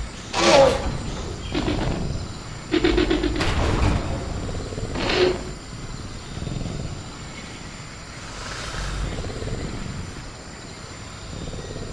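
Designed velociraptor sound effect: a run of short growling calls, each falling in pitch, with a fast rattle and a sharp clatter about three seconds in, over a steady high insect drone. The calls die down in the second half.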